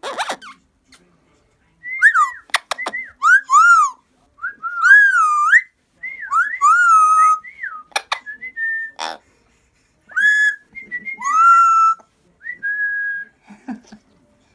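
Amazon parrot whistling: a run of short, loud whistled notes that swoop up and down, some held on one pitch, with a few sharp clicks between phrases.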